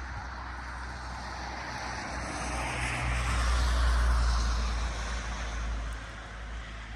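An engine passing by: a low rumble that swells to its loudest about four seconds in and then fades, over a steady rain hiss.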